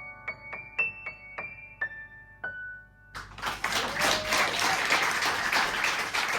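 Piano or keyboard playing a slow run of single high notes that close a song, then audience applause breaking out about three seconds in.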